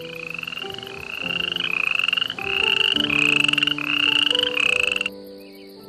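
An animal call made of rapid pulses, repeated about six times, each call rising slightly in pitch and stopping about five seconds in, over soft background music with sustained notes.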